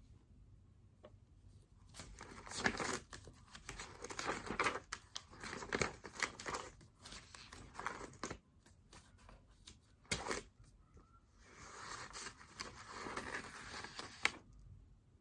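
Paper rustling and being handled at a desk, in two scratchy stretches of several seconds each, with a single sharp tap between them.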